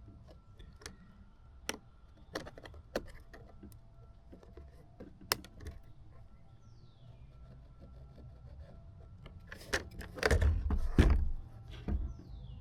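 Scattered light clicks and taps of small parts and tools being handled, then a louder rush of clattering handling noise about ten seconds in, ending in a sharp knock.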